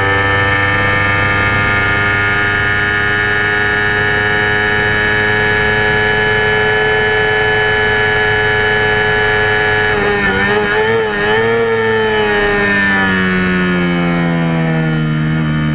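Yamaha R25 parallel-twin engine through an AHM Z1R aftermarket exhaust, held at high revs at full throttle for about ten seconds; the pitch then wavers briefly and falls steadily as the revs drop near the end.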